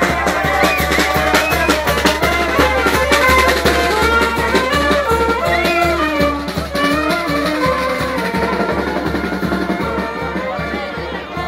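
Street band of brass and drums playing a lively tune with a steady beat, growing a little fainter in the last few seconds.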